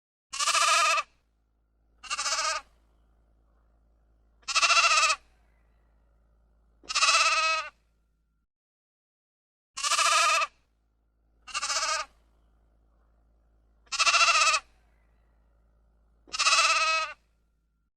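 An animal bleating: eight wavering calls of under a second each, in two identical runs of four separated by a short pause.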